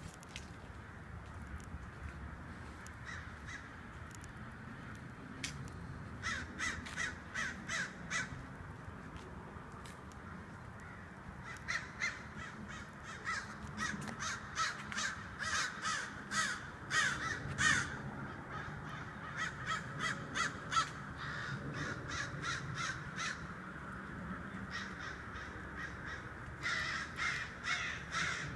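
Birds calling in repeated runs of short calls, about three a second, in several bouts separated by pauses, over a steady low background rumble.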